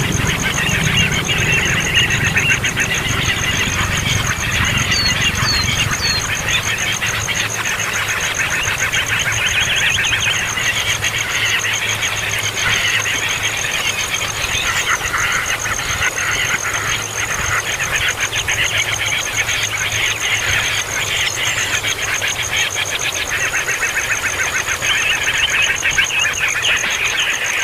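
A brood of baby birds chirping continuously in a dense, shrill racket. A steady high whine runs underneath.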